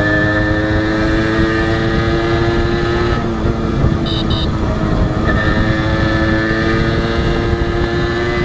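Honda H100S single-cylinder two-stroke motorcycle engine pulling under way, its pitch climbing slowly, then dropping off about three seconds in and climbing again from about five seconds. Two short high beeps come around four seconds in.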